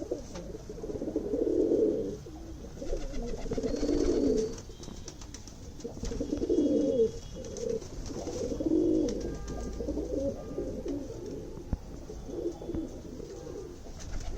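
Domestic high-flyer pigeons cooing in repeated low, warbling bouts.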